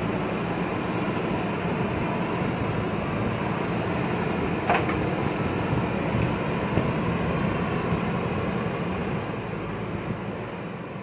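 JCB backhoe loader's diesel engine running steadily, with a sharp metallic clank a little before halfway and a lighter one soon after; the sound fades out near the end.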